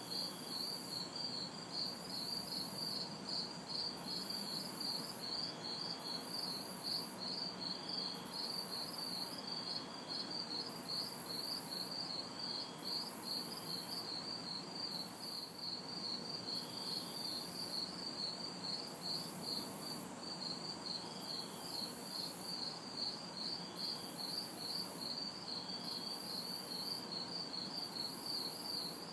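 A chorus of crickets chirping in a fast, even rhythm. Over it a very high insect buzz switches on and off about once a second, and distant traffic hums faintly underneath.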